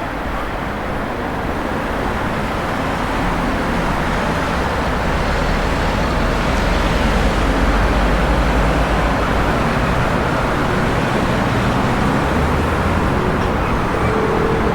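Street traffic: a motor vehicle's low engine rumble with road noise, growing louder over the first several seconds and then holding steady.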